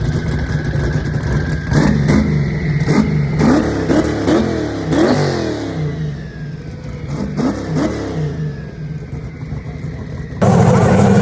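Car engine being revved repeatedly in quick throttle blips, each a short rising sweep in pitch, with sharp cracks among them. The blips come fast through the first half, then fewer and fainter about two-thirds of the way in.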